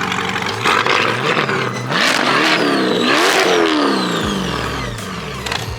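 A car engine revving: its pitch climbs to a peak a little over three seconds in, then falls away.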